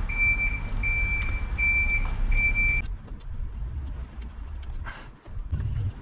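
A vehicle's reversing alarm beeps about four times at an even pace over a low engine rumble, and both cut off about three seconds in. A few light clicks follow.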